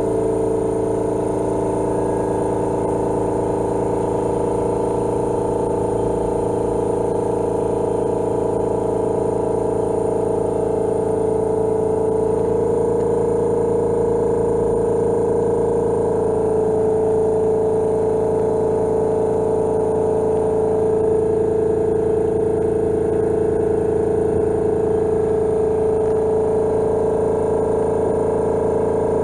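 Honda Lead 100 scooter's engine running steadily with a strong humming tone, the abnormal noise the owner suspects may come from a crank bearing.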